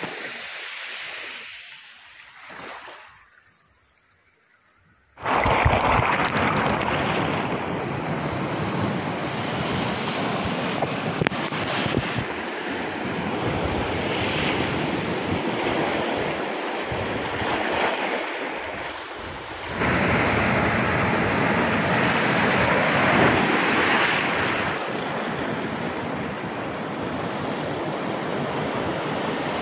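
Sea waves surging and breaking along the shore, with wind buffeting the microphone. Faint for the first few seconds, then the surf comes in suddenly about five seconds in and runs on, swelling louder now and then.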